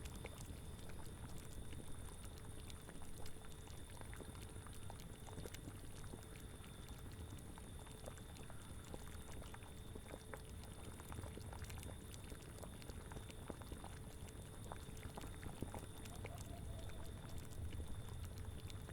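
A boiling cauldron bubbling, with a steady stream of small pops over a low wind rumble.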